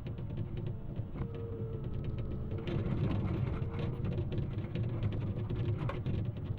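Excavator's diesel engine running under load, with a hydraulic whine rising briefly about a second in and again near the middle, over a run of snapping and knocking sounds.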